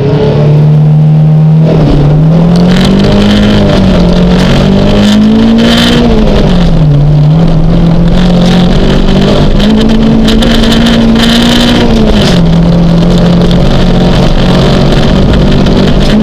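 1972 Toyota Celica 1600's four-cylinder engine, heard from inside the cabin, revving hard under load on a gravel stage. Its note rises and falls and drops sharply twice, with gravel rattling and pinging against the car.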